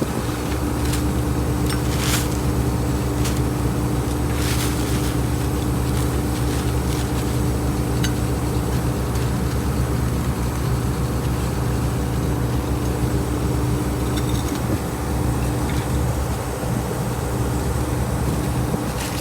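A heavy engine running steadily with an even, low drone, and a couple of short clicks or knocks early on.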